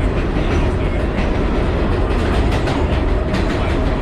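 Vintage New York City subway car running on the track, heard from inside: a loud, steady rumble and rattle of steel wheels on the rails, with occasional faint clicks.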